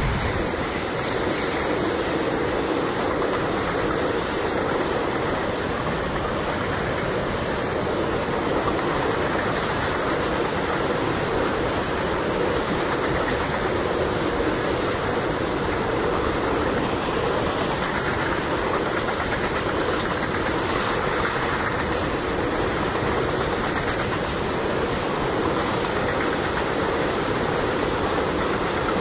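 Freight wagons rolling along the track: a steady rumble of steel wheels on rail.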